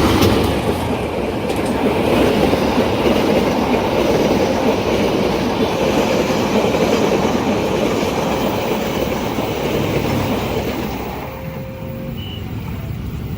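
A train passing close by at a level crossing, its wheels rumbling and clattering over the rails, dying down about eleven seconds in.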